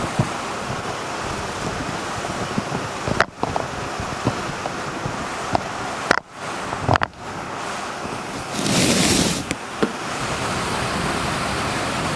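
Steady wind rush from an electric fan on its highest speed blowing on a shotgun microphone, with no blustering. A few handling knocks as the furry windshield is taken off, and a louder rush of noise lasting under a second about eight and a half seconds in.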